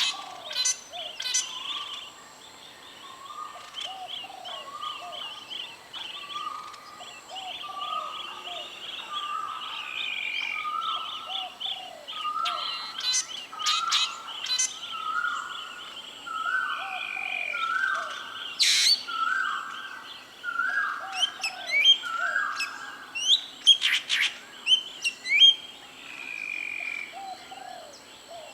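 Several wild birds calling together. One gives a long series of short, even notes about once a second, each a little higher in pitch than the last, over constant chattering calls, with sharper single calls breaking in near the end.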